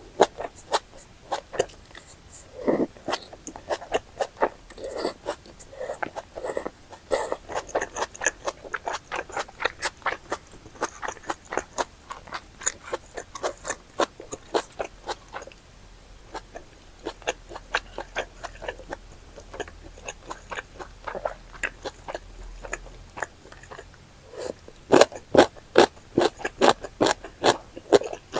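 Close-miked chewing and eating mouth sounds as spicy chicken and intestine stew is eaten: many short clicks in quick succession, with a louder run of them near the end.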